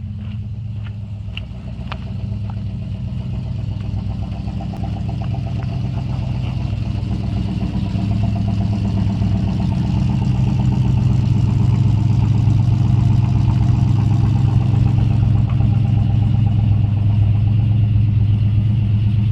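1972 AMC Javelin's engine running steadily just after a cold start, having sat unstarted for a month and a half. It grows louder over the first ten seconds or so, then holds, with a few light clicks in the first two seconds.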